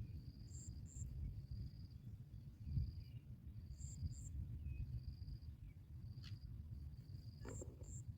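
Insect chirping outdoors: a high-pitched trill repeated in pulses of under a second each, with a pair of higher, shorter chirps about every three and a half seconds, over a constant low rumble.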